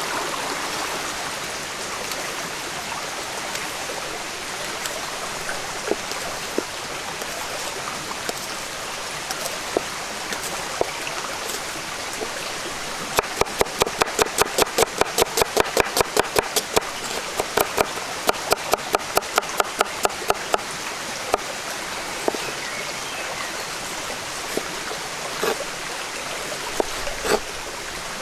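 A stream flowing steadily. About halfway through come two quick runs of sharp ringing knocks, about five a second, with a short break between them, and a few single clicks around them.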